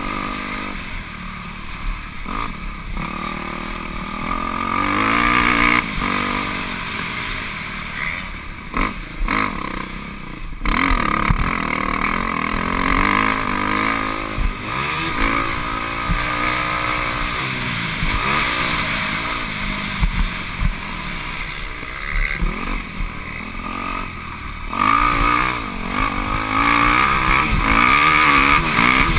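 Motocross dirt bike engine revving up and falling off again and again, its pitch climbing and dropping as the throttle opens and closes, with a few short thumps.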